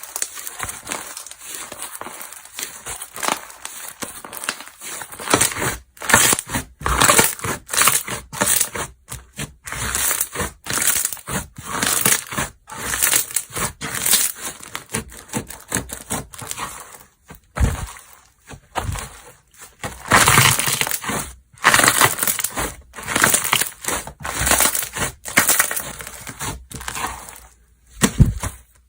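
Slime being squeezed, pressed and stretched by hand, giving dense crunching and crackling in quick irregular runs with short pauses between them; it cuts off suddenly at the end.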